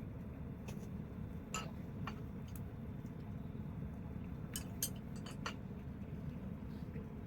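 Wood bonfire crackling: scattered sharp pops, a small cluster of them past the middle, over a steady low rumble.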